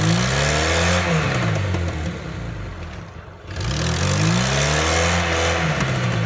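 Lada Niva's engine revving hard twice, the pitch climbing and falling each time, with a hiss of spinning wheels in snow and slush as the stuck car tries to climb out of the ditch.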